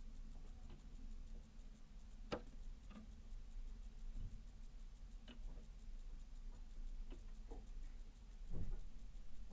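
Scattered light taps and clicks at irregular intervals, of small birds such as titmice and sparrows pecking at seeds in a feeder, over a low steady hum.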